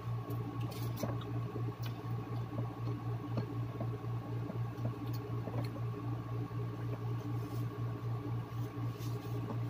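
Chewing on a hamburger, with scattered small wet mouth clicks and squishes, over a steady low hum.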